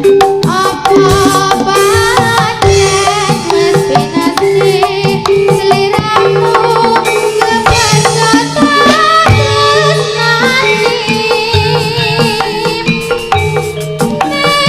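Live Javanese turonggo (jaranan) ensemble music: hand drums playing a busy rhythm under a wavering melodic lead line and steady held tones.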